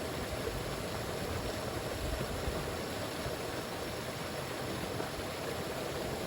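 Steady rush of flowing river water, a stream running high after heavy rain.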